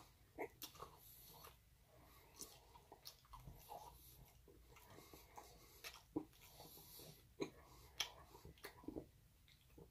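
Faint chewing of a mouthful of pizza: a scatter of soft, irregular mouth clicks.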